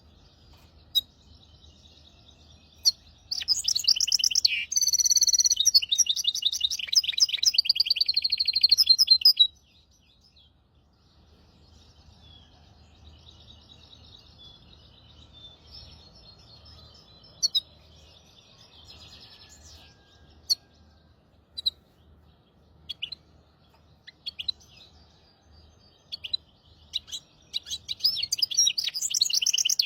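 Hybrid finch singing. A loud phrase of rapid trills and warbles runs for about six seconds, then comes a stretch of soft twittering with scattered single chirps, and a second loud song phrase starts near the end.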